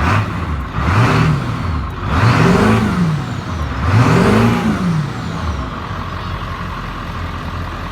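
Ford 7.3 L Power Stroke turbo-diesel V8 revved three times, its pitch rising and falling with each blip, then settling back to a steady idle.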